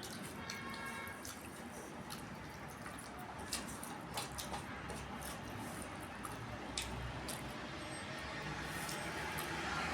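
Close-up eating sounds: wet squishing and chewing of rice and curry, with scattered sharp clicks and lip smacks.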